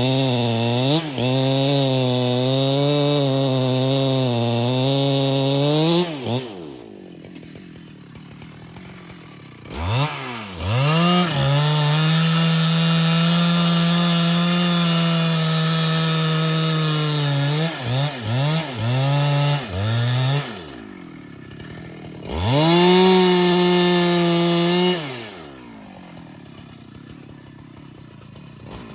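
Husqvarna 395XP big two-stroke chainsaw run to full throttle several times, dropping back to idle in between. The first run wavers in pitch. A long steady high-revving run comes in the middle, then a few quick blips of the throttle, another short full-throttle run, and idle near the end.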